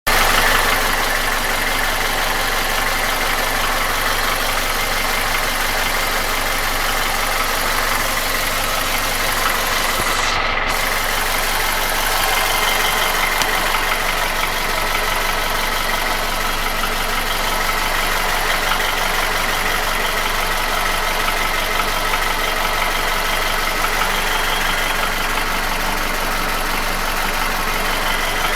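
Nissan QG16DE 1.6-litre four-cylinder engine idling steadily with a knock, which the owner places between the first and second cylinders at the front of the block. The engine has no hydraulic lifters.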